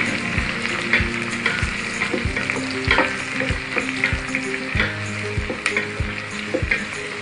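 Sliced shallots and whole spices sizzling in hot oil in a stainless steel pot, stirred with a wooden spoon, with repeated clicks of the spoon against the pot.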